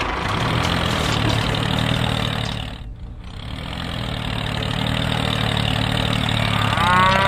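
A tractor engine running steadily, with a short dip in level about three seconds in. Near the end a cow starts a long moo over it.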